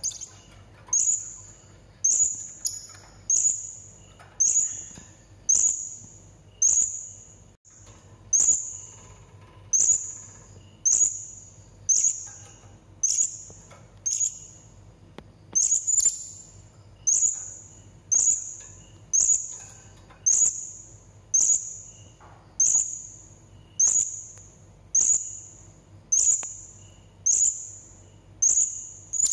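Serindit (hanging parrot) calling: a short, shrill, very high note repeated steadily about once a second, each note dropping slightly in pitch.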